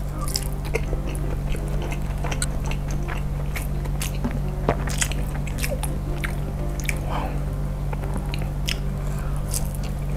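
Close-up mouth sounds of a person chewing pieces of a large meatball stuffed with melted mozzarella: many short, sharp smacks and clicks scattered through, close to a clip-on microphone.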